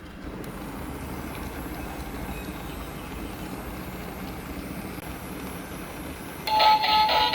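Battery-powered transparent-gear toy police car running, its small motor and plastic gears making a steady low whir. About six and a half seconds in, the toy's electronic sound chip starts a loud beeping tune.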